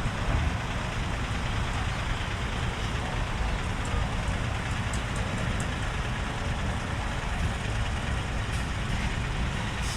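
Steady low rumble of a truck's diesel engine idling, with an even hiss over it.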